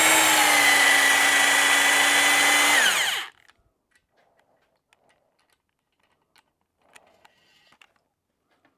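Electric drill spinning a stone cylinder hone in an outboard cylinder bore, running with a steady whine, then let off and winding down to a stop about three seconds in. Faint clicks and handling noises follow.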